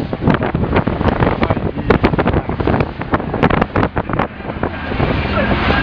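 Wind buffeting hard on the microphone aboard an open speedboat running at speed, over the steady low drone of its engine. The buffeting eases in the last second or so.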